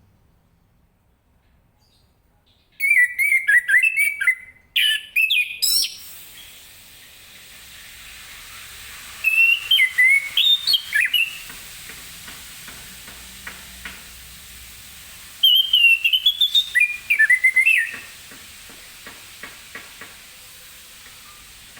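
Orange-headed thrush singing: four bursts of quick, varied whistled phrases separated by pauses, over a steady background hiss.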